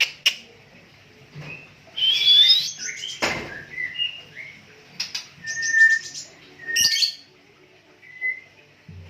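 White-rumped shama (Medan murai batu) singing in separate short phrases of clear whistles, rising sweeps and quick chattering notes, with pauses between them. There is a single sharp knock about three seconds in.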